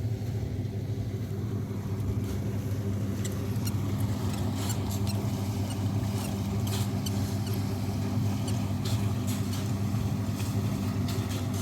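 An engine running steadily with a low, even hum, and scattered light clicks and taps over it.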